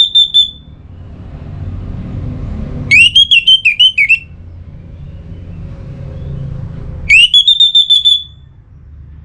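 Orange-headed thrush singing loud whistled phrases, each a quick rising note that runs into a rapid stuttering trill lasting about a second: the end of one at the start, then full phrases about three seconds in and about seven seconds in. A low rumble fills the gaps between phrases.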